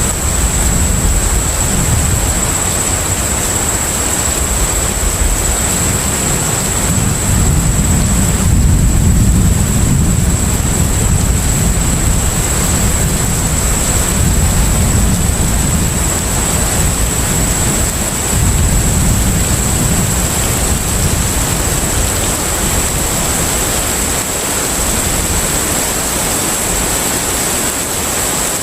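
Container ship at sea: a steady deep rumble under a constant wash of noise, with a thin, steady high whine over it.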